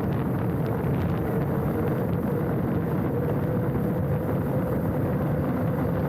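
Mountain bike rolling down a dirt trail: the tyres give a steady rumble with a faint hum over it, with small ticks of bike chatter and wind buffeting the handlebar-mounted camera's microphone.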